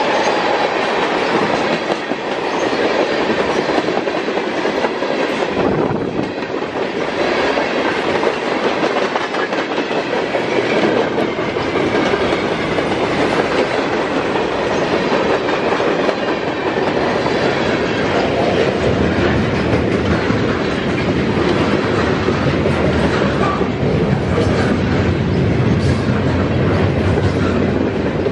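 Freight train of tank cars, covered hoppers and boxcars rolling past close by: steel wheels clicking over the rail joints over a steady rumble, which gets deeper about two-thirds of the way through.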